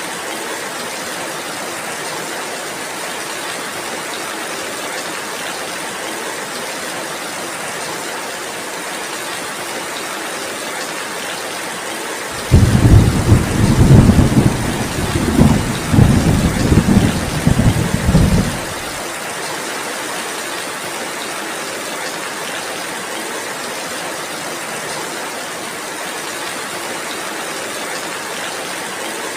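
Steady heavy rain hiss throughout. About twelve seconds in, a loud roll of thunder starts suddenly and rumbles low for about six seconds, then stops.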